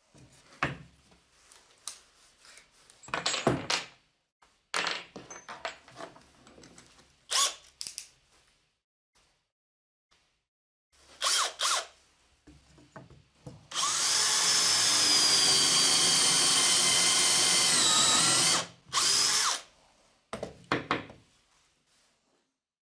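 Electric drill running in short irregular bursts, then a steady run of about five seconds whose pitch dips briefly near its end, followed by two more short bursts.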